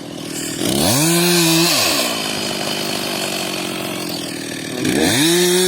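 Chainsaw revving up to high speed, held for about a second and dropping back, then revving up again near the end.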